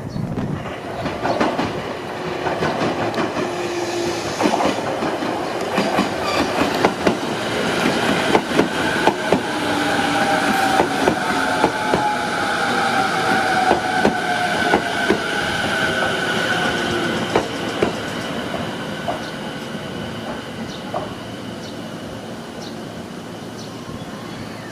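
Train running through the station, its wheels clicking over rail joints, getting louder to a peak about halfway through and then fading. A tone falling slowly in pitch is heard through the loudest part.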